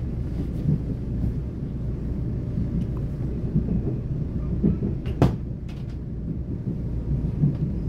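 Low, steady rumble of a train running along the track, heard from inside a passenger car, with uneven thumps and one sharp clack a little past halfway.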